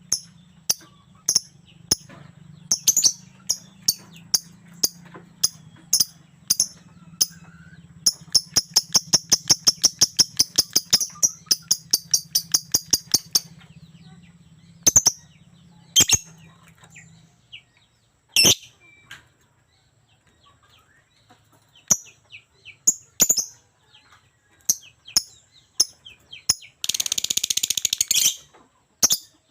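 Lovebird chattering in sharp, high chirps, with a fast even run of about four chirps a second around eight seconds in and a dense burst of shrill chatter near the end.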